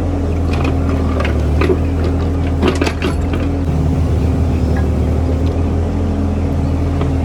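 Mini JCB earthmover's engine running steadily under work, with scattered short knocks and clicks between about half a second and three seconds in.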